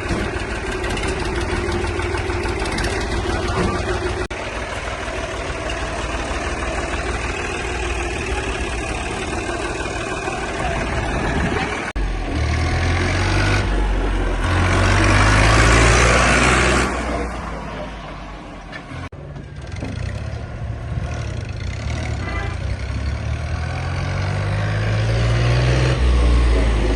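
Tractor engine running, its pitch climbing as it is revved or pulls away about halfway through and again near the end. A loud rushing noise swells and fades around the middle.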